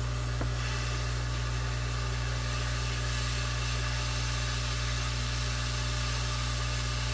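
Hot air rework station's blower running steadily: a constant low hum under an even airy hiss.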